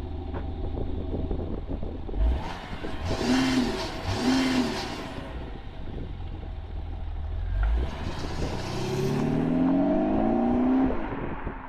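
Audi A6 3.0 BiTDI twin-turbo V6 diesel fitted with a Kufatec sound booster, idling and being revved in place: two short blips about three and four seconds in, then a longer rev that climbs steadily and drops back to idle near the end.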